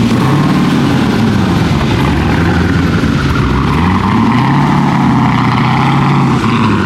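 A car engine runs under way, its pitch rising and falling a few times as speed changes, with steady road and wind noise underneath.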